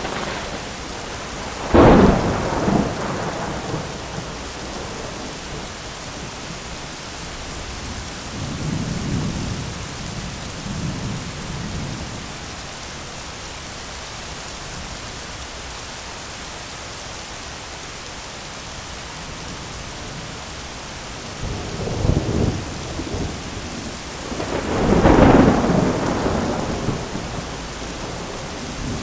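Thunderstorm: steady rain with rolling thunder. A loud clap about two seconds in rumbles off over a couple of seconds, low distant rumbles follow in the middle, and near the end thunder builds again into a second loud peal that rolls on for several seconds.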